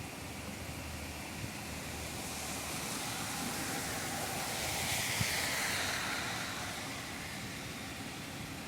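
A vehicle passing on a wet road: the tyre hiss swells to a peak about five seconds in, falls in pitch as it goes by, and fades away.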